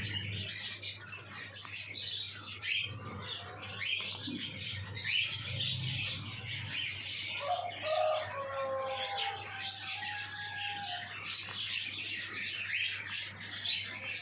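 A group of cockatiels chirping and calling, many short overlapping chirps without a break.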